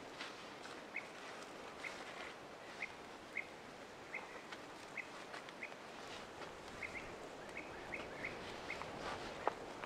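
A bird calling with short, repeated notes, roughly one or two a second, over a steady hiss of background noise. Faint clicks are heard throughout, and one sharp click about nine and a half seconds in is the loudest sound.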